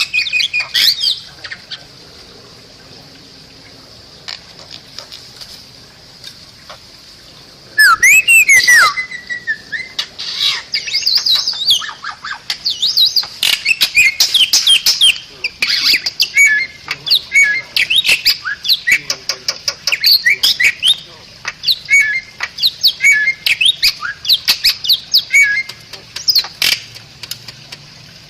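Bali myna (Bali starling) singing: a few short notes, a pause of several seconds, then a loud burst of harsh, gliding whistles about eight seconds in, followed by a long run of rapid chattering and whistled notes.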